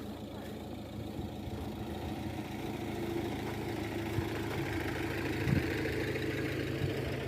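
A vehicle engine idling steadily, its hum growing louder over the first three seconds and then holding.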